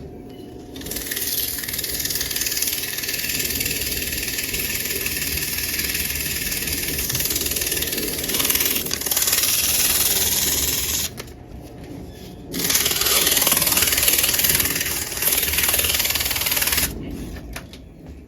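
320-grit sandpaper held against the spinning motor shaft of a vintage box fan, a loud steady hiss over the low hum of the running motor. It sands for about ten seconds, stops briefly, then sands again for about four seconds, taking gunk and a low spot off the shaft.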